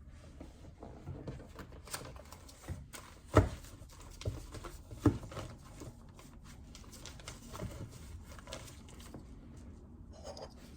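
Typing on a JJK84 mechanical keyboard with Outemu Silent Peach linear switches: irregular soft key taps, with two louder thumps about three and a half and five seconds in.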